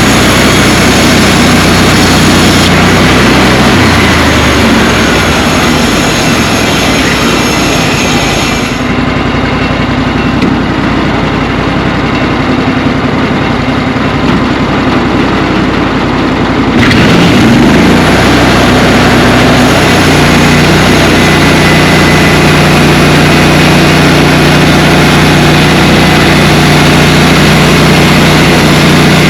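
An engine running loudly and steadily for the whole stretch. Its pitch shifts a few times, and the sound turns duller, losing its treble, for several seconds in the middle.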